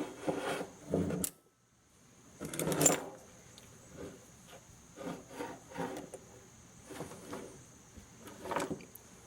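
Strong magnetron magnets sliding and scraping along a workbench as one is pushed with the other, in irregular rubbing strokes.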